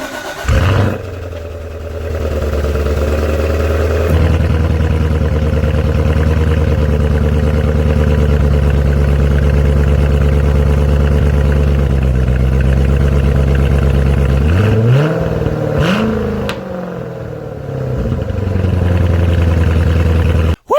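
Chevrolet Corvette C7 V8 cold-starting: it catches with a loud flare about half a second in, then settles into a steady fast idle. About three-quarters of the way through there is one rev that rises and falls back.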